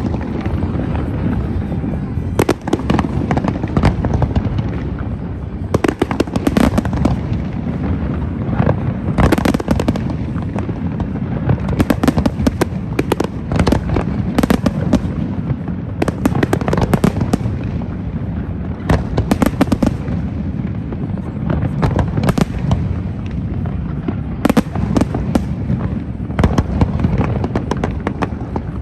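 Fireworks display: a continuous low rumble with dense clusters of sharp bangs and crackling bursts going off one after another.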